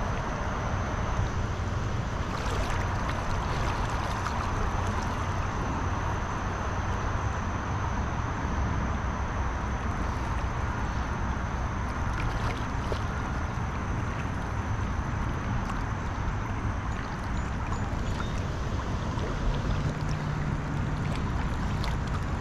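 Steady rushing noise of flowing river water mixed with wind rumbling on the microphone, with a few faint clicks.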